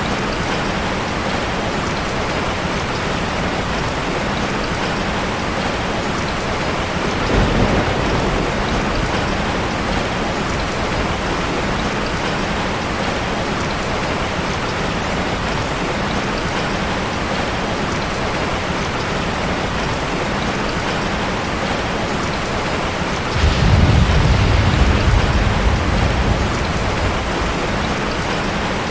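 Heavy rain falling steadily in an even hiss. A short low rumble of thunder comes about seven seconds in, and a longer, louder one rolls in near the end.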